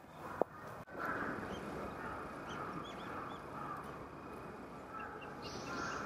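Wild birds calling outdoors: repeated mid-pitched calls over a steady background, with a few short, high chirps from small birds.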